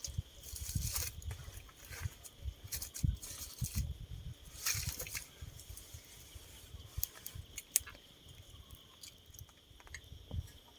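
Forest insects chirring in one steady high tone, with scattered low bumps, rustles and clicks close to the microphone.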